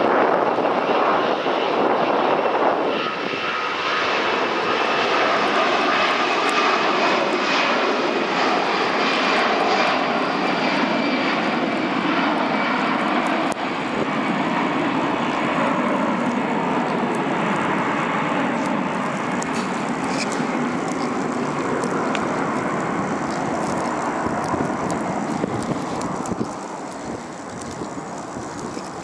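Airliner's engines running as the plane passes: a steady rushing noise with a faint high whine, dying down somewhat near the end.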